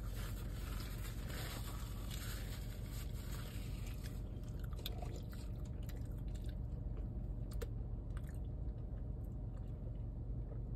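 Close-up chewing of kimchi fries with spicy pork: soft wet mouth sounds with scattered small crunches and clicks, over a steady low hum.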